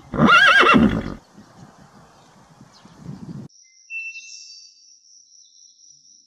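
A horse whinnies once, for about a second, right at the start, its pitch quavering up and down. Quieter rustling follows, and from about three and a half seconds only a faint, thin, high tone remains.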